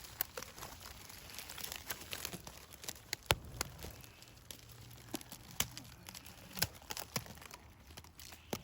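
Vegetation rustling and crackling, with irregular sharp snaps and clicks, as stems and leaves are pushed aside by hand.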